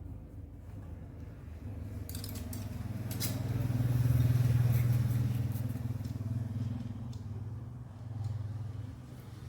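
Scooter engine running, its sound swelling to a peak about four seconds in, then easing off, with a brief rise again near the end.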